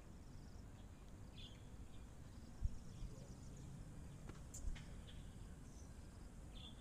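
Faint outdoor ambience: a steady low rumble with a couple of short bird chirps and two light knocks.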